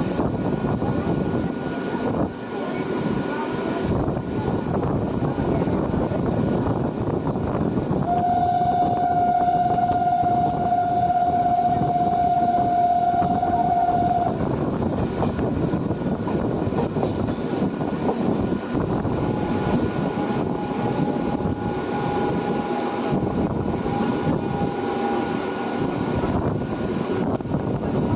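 A train passing on the rails with a steady rumble, and a long single-note horn that sounds for about six seconds near the middle. A second, fainter and slightly higher horn note sounds later for about six seconds.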